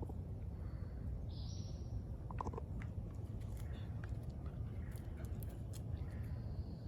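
Forest ambience: a steady low rumble, with a short high bird call about a second and a half in and a few light clicks a little later.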